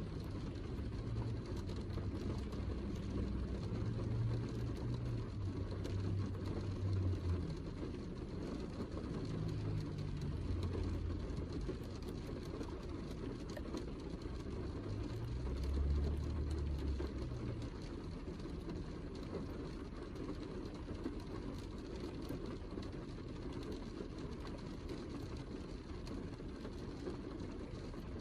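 Heavy rain falling steadily: a dense, low rumbling wash with fine patter of drops on top. Some deep low notes come and go during the first half.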